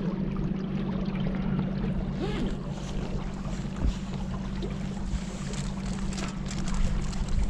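A boat's motor running steadily at cruising speed, a constant low hum, with wind on the microphone.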